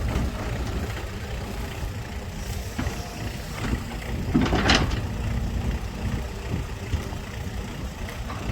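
Excavator diesel engine running steadily, with a loud half-second hissing noise about four and a half seconds in.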